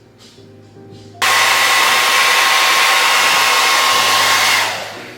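Handheld hair dryer blowing: it comes on suddenly about a second in, runs steadily with a whine for about three and a half seconds, then dies away near the end.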